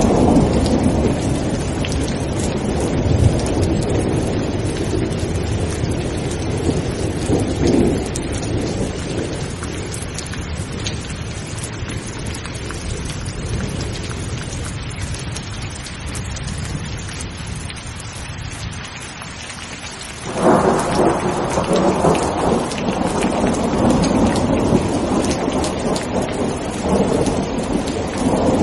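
Steady rain with rolling thunder. The rumble slowly dies away, then a new thunderclap breaks in suddenly about two-thirds of the way through and keeps rumbling over the rain.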